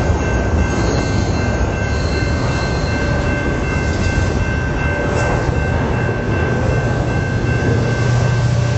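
Double-stack intermodal container cars of a CN freight train rolling past at close range: steady wheel and rail noise with a few thin high tones held over it. Near the end a deep engine rumble grows louder as the train's distributed-power unit, an EMD SD70M-2 diesel locomotive, draws near.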